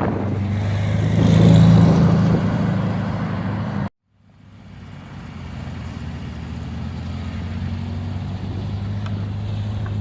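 Car engine running steadily, with wind noise on the microphone. The sound drops out for a moment about four seconds in, then fades back in.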